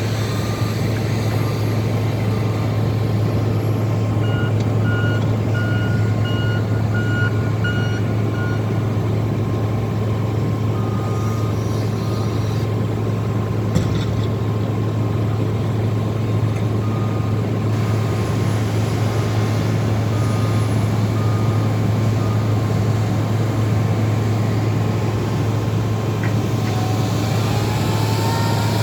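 Skid steer and loader engines running steadily under load while pushing snow with sectional plows, with a reversing alarm beeping about twice a second for several seconds, starting a few seconds in, and fainter backup beeps now and then after that.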